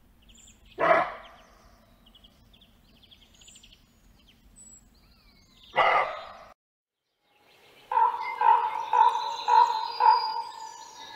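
Two short, loud bark-like calls about five seconds apart, with faint bird trills behind them. After a brief break comes a run of about five ringing calls from a common raven, roughly two a second, fading near the end.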